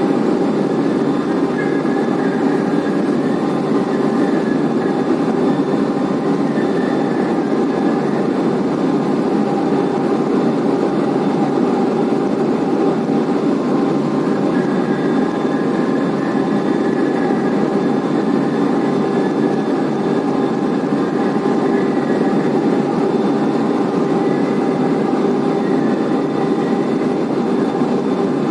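Blast furnace main charging conveyor running steadily between the coke batch and the ore batch, a constant loud machine noise with a faint high squeal that comes and goes.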